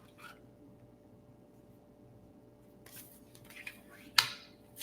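Tarot cards being handled in a quiet room: a few light taps and clicks late on, and one sharper snap about four seconds in.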